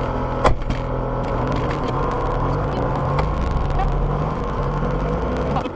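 Car engine and road noise heard from inside the cabin, a steady low rumble, with a sharp click about half a second in. The rumble cuts off near the end.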